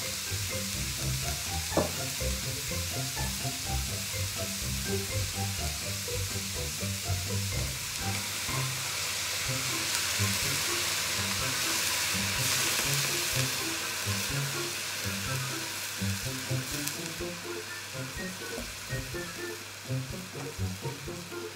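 Shredded vegetables sizzling as they fry in a wok on a gas stove. The sizzle swells when liquid is poured into the wok about ten seconds in, then eases toward the end.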